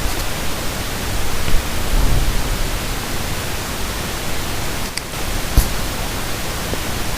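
Steady hiss of microphone and background noise, with a couple of faint clicks about five seconds in.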